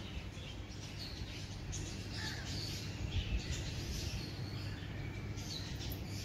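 Several birds calling and chirping in short scattered calls, over a low steady background rumble.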